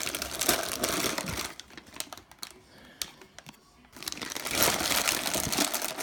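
Trading cards being handled and slid against one another, a run of quick clicks and rustles that dies down for about two seconds in the middle and picks up again near the end.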